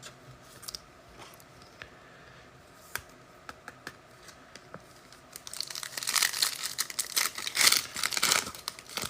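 A few light clicks of card handling, then, about five seconds in, a foil trading-card pack wrapper is torn open and crinkled for several seconds.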